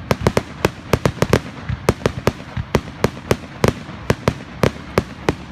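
Fireworks display: about twenty sharp bangs from bursting shells in quick, irregular succession, roughly four a second and some in close pairs, over a low rumble.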